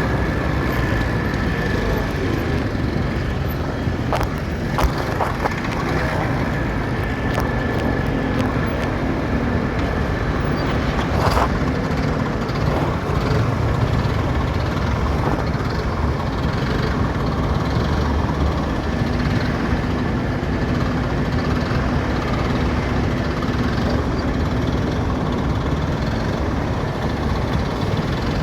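A motorcycle riding through city traffic: steady engine and road noise with rumble from passing vehicles, and a few sharp clicks about four and eleven seconds in.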